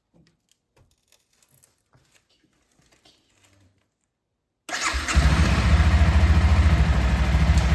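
A Honda CBR300R's single-cylinder engine, still on its stock exhaust, is started about four and a half seconds in, catches almost at once and settles into a steady idle. Faint clicks come before it.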